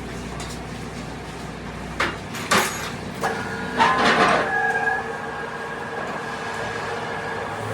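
Workshop machine sounds: a low hum that stops about two seconds in, a few sharp knocks, a louder scraping stretch, then a steady whine from a running machine.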